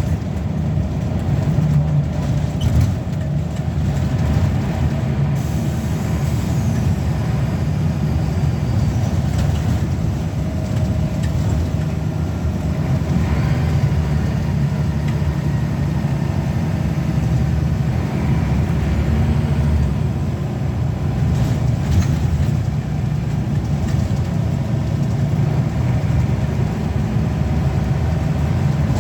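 Scania L94UB bus's 9-litre five-cylinder diesel engine running steadily as the bus drives along. A couple of brief sharp sounds rise above it, once early on and once late on.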